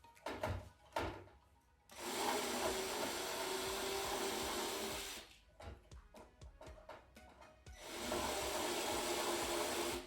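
A small electric motor with rushing air runs steadily in two bursts, about three seconds and then about two seconds, each starting and stopping abruptly. A few knocks of handling come just before.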